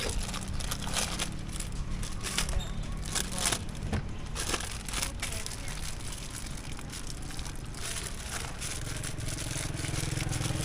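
Irregular crinkling and clicking of fruit being handled and packed, over a low steady hum of traffic; the hum grows near the end.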